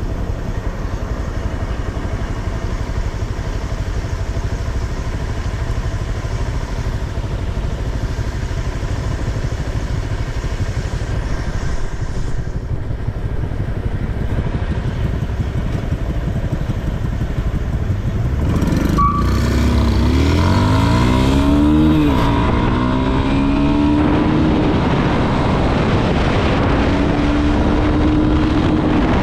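Motorcycle engine and wind noise while riding at a steady pace; about two-thirds in, engines rev up sharply, rising in pitch, then run on at a steadier higher note.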